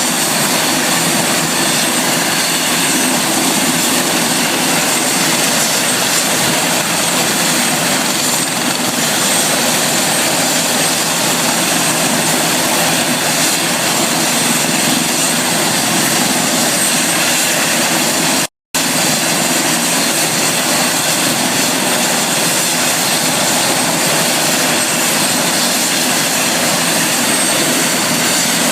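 Helicopter running with a loud, steady drone and no change in pitch. The sound cuts out completely for a split second about two-thirds of the way through.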